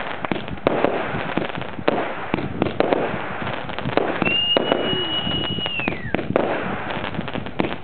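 Fireworks going off: a rapid series of bangs and crackles, with a steady high whistle starting about four seconds in that drops in pitch as it dies out about two seconds later, like a whistling firework.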